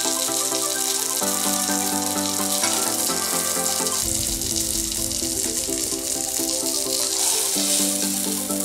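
Background music with held notes changing in steps, over the steady hiss and sizzle of chicken leg pieces shallow-frying in hot oil in a pan.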